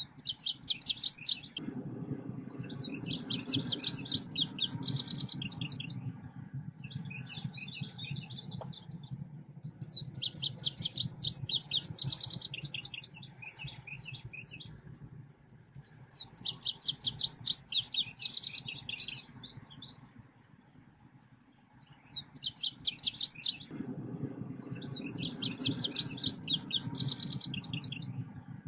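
Selendang biru bird song played as a lure call: repeated bouts of rapid, high-pitched chattering trills, each a second or two long, with short pauses between. A low hum runs under some of the bouts.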